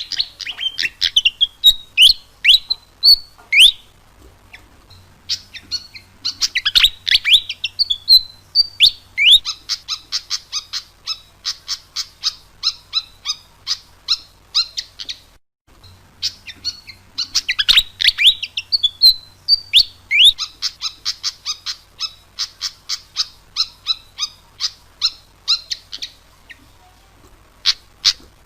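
Malaysian pied fantail singing: whistled notes that slide up and down, then long runs of quick, sharp chirps at several a second. The sequence breaks off briefly about halfway and then repeats.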